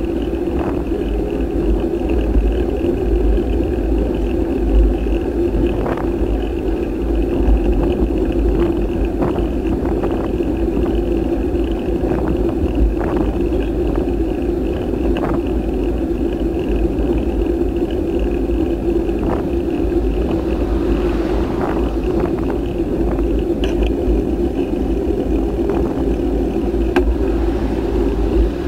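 Steady rumble and wind noise of a bike ride picked up by a camera riding along, with scattered short knocks from bumps.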